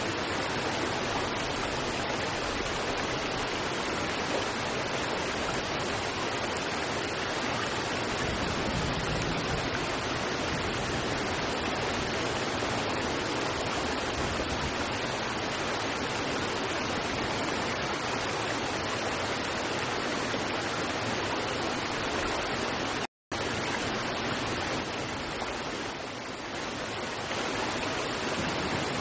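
River water rushing over rocks: a steady, even rush, with a very brief dropout to silence about two-thirds of the way through.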